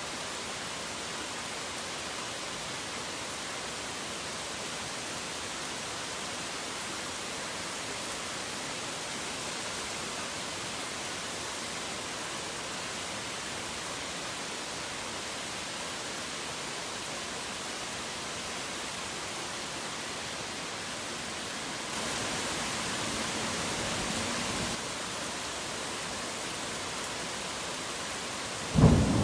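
Steady heavy rain falling, an even hiss that swells louder for about three seconds near the middle. A clap of thunder breaks in suddenly at the very end.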